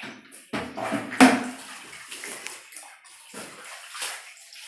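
Floodwater sloshing and splashing in uneven surges, with one sharper, louder splash about a second in.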